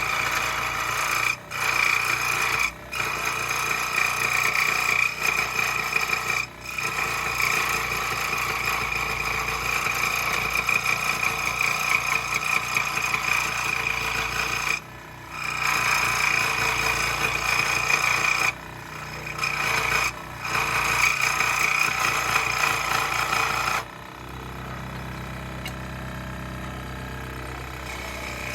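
A power saw cutting wood steadily, with a few brief breaks in the cut. Near the end the cutting stops and the saw's motor keeps running on its own, quieter and lower.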